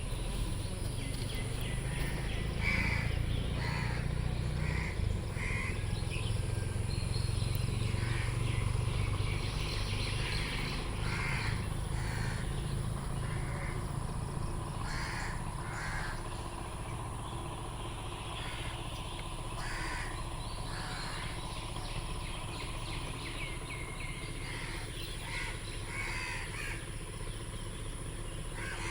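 Crows cawing again and again, short calls scattered throughout, over a steady low rumble that is stronger in the first half.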